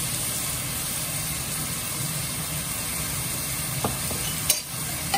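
Onion, spices and vegetables sizzling as they fry in a nonstick wok, with a wooden spatula clicking against the pan a couple of times near the end.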